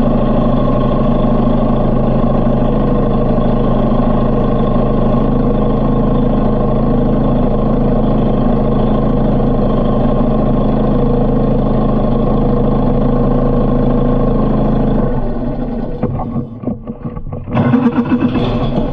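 Harley-Davidson motorcycle engine running at a steady speed. About sixteen seconds in the sound drops and breaks up briefly, then a louder, brighter sound comes back near the end.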